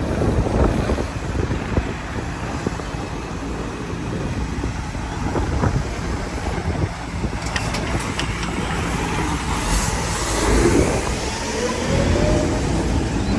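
Road traffic noise with wind buffeting the microphone: a steady low rumble of passing vehicles that stops abruptly at a cut near the end.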